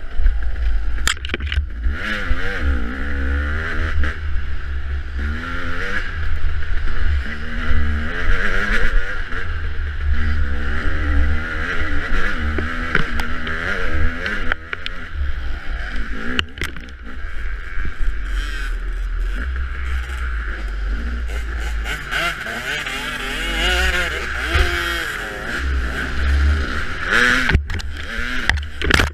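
Off-road motorcycle engine revving up and down continually as the bike is ridden over rough trail, with heavy wind buffeting on the microphone and a few sharp knocks.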